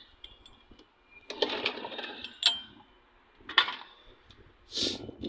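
Small engine being turned over in repeated start attempts: three rattling bursts of cranking, the first about a second and a half long, then two short ones, and it never catches.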